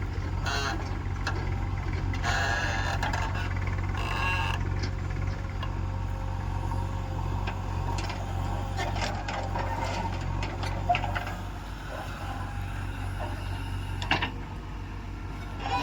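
Heavy diesel machinery engine running steadily with a low drone, with a single sharp knock near the end.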